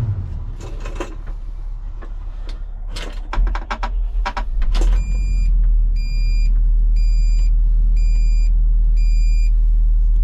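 Volvo excavator's diesel engine starting from inside the cab: a few clicks, then the engine catches about three and a half seconds in and settles to a steady idle. Over it the cab sounds a string of five evenly spaced electronic warning beeps.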